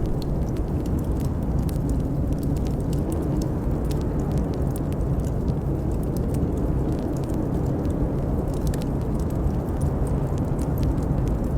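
Blizzard wind blowing as a steady low rumble, with a wood fire in a fireplace crackling in many small, sharp pops.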